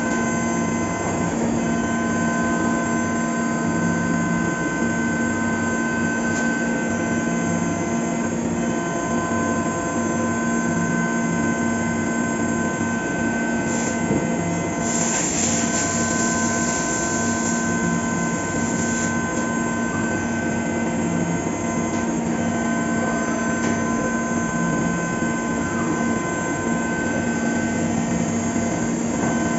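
Fagima Jazz M five-axis CNC milling machine cutting a part: a steady spindle whine of several held tones over rough cutting noise, with a burst of hiss for about four seconds midway.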